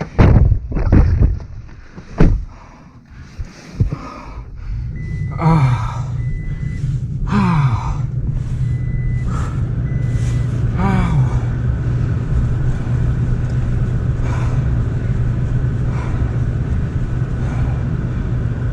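A few knocks and thumps, then a truck engine starts about five seconds in and idles steadily inside the cab. A dashboard warning chime beeps several times in short beeps.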